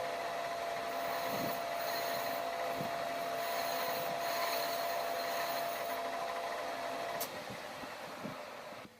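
A workshop machine running steadily: a constant hum under a broad hiss. The hum stops about seven seconds in and the running sound dies away near the end.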